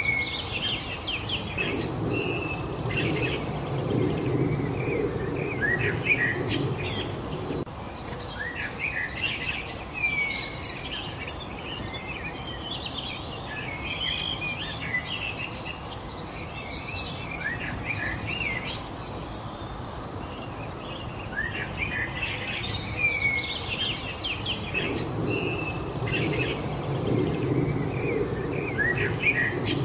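Many songbirds chirping and twittering, short overlapping calls and trills, busiest about ten seconds in and again near the end. Under them a low rumble comes in for the first several seconds, stops, and returns near the end.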